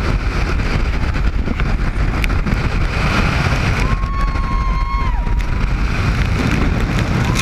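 Speedboat running at speed, a steady low rumble of engine, water and wind buffeting the microphone. About four seconds in, a single high-pitched tone is held for about a second over it.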